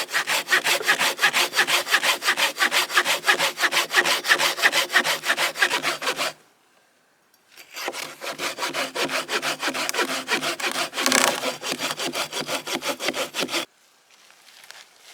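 Hand saw cutting through wood in fast, even strokes of about six a second. It stops about six seconds in, resumes after a short pause and stops again near the end.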